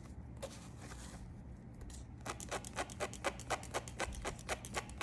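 Tweezers plucking hairs from a lace wig frontal: a couple of small clicks, then from about halfway a quick, even run of sharp little snaps, about four or five a second.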